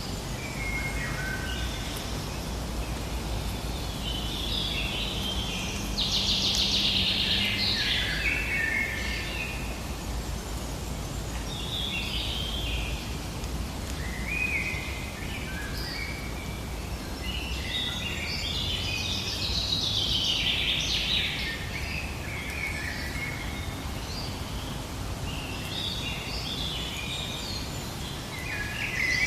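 A songbird singing, repeating short phrases of quick stepped notes every few seconds, over a steady low background rumble.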